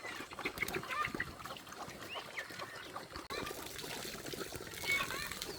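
A flock of domestic waterfowl calling: many short overlapping calls, with a brief break about three seconds in.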